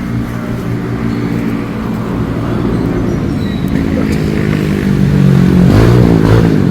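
An engine running steadily and growing louder, its pitch briefly rising and falling near the end.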